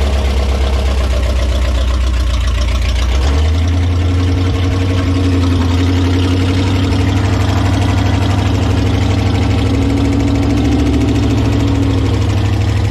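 Freshly swapped-in V8 engine in a 1969 Plymouth Valiant running steadily, loud, just after starting up; about three seconds in its note steps up a little and holds. The distributor timing was only guessed at, and the owner reckons it is off.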